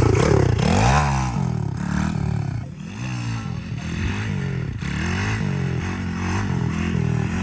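Small dirt bike engine being ridden, revving up and dropping back in pitch several times.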